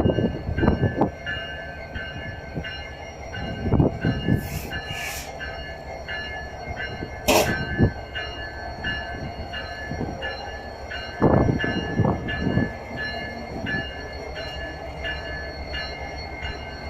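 A train rolling in slowly, its wheels thudding over rail joints every few seconds, with one sharp bang about halfway through. A faint high tone pulses about one and a half times a second throughout.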